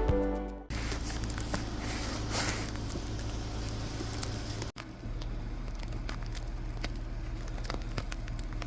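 Steady low hum of a car's cabin, with light crackling and scattered clicks. Music fades out in the first second, and the sound briefly cuts out about halfway through.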